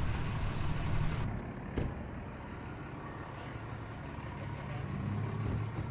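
Truck driving: a steady low engine and road rumble, with a faint click about two seconds in.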